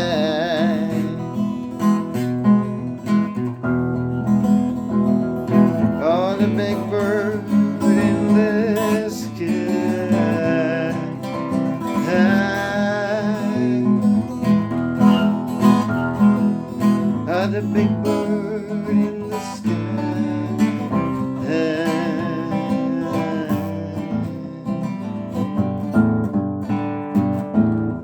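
Music: an acoustic guitar strums the instrumental ending of the song, with a wavering melody line over it at times and no words.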